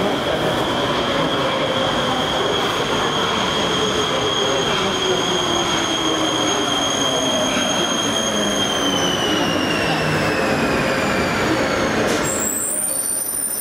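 Metro train running with a steady noisy rumble and a high whine, the whine and a lower tone both falling in pitch from about two-thirds of the way through as the train slows. Near the end the sound changes abruptly, the whine dropping away.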